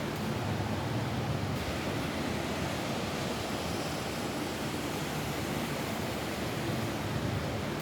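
Steady rain falling on a roof: an even, unbroken rushing hiss with a low rumble underneath.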